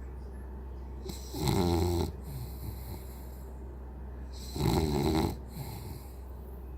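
French bulldog snoring: two snores about three seconds apart, each about half a second long, over a steady low hum.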